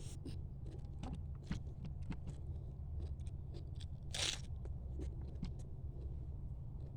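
Crab shell cracking and crunching as it is bitten and chewed: a scatter of short sharp cracks and clicks, with a louder crunch about four seconds in, over a steady low hum.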